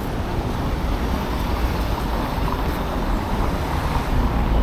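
Steady low rumbling noise of wind buffeting the microphone, mixed with street traffic.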